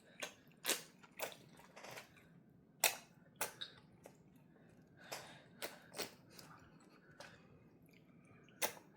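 A toddler eating soup: a string of short, sharp clicks and smacks, about a dozen, irregularly spaced, with quiet gaps between.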